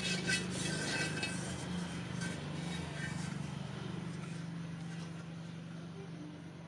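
Light metallic clinks and rings, thickest in the first three seconds, over a steady low hum that slowly fades.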